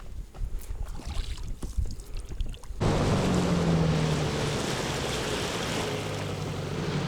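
A motor running steadily with a low hum under a rushing noise, starting abruptly about three seconds in. Before that there is low wind rumble with a few knocks.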